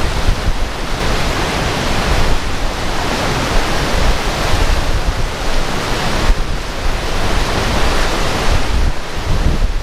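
Rushing water from a storm-swollen spillway, a loud steady roar, with wind gusting on the microphone.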